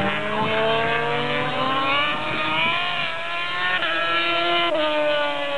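Racing motorcycle engines at full revs, the pitch climbing steadily, with brief drops in pitch about four and five seconds in.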